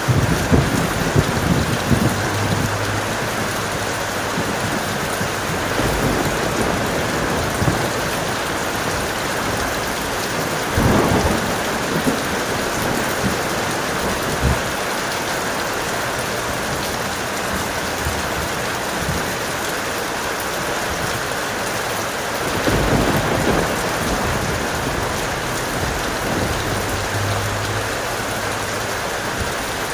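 Heavy rain falling steadily, with low rumbles of thunder: one right at the start, another about a third of the way in, and a longer roll about three quarters of the way through.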